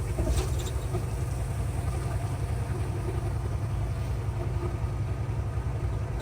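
Semi truck's diesel engine idling steadily, a low even rumble.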